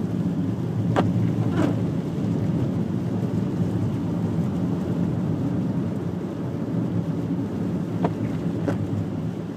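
Car driving along a snow-covered highway: a steady low rumble of engine and tyres. Two pairs of short clicks come through, one about a second in and one near the end.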